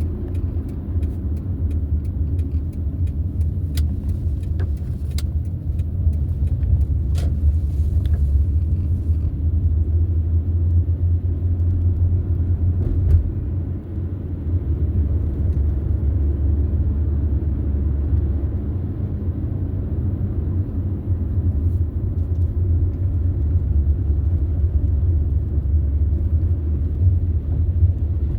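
Steady low rumble of a car driving, with road and engine noise, and a few faint ticks between about four and eight seconds in.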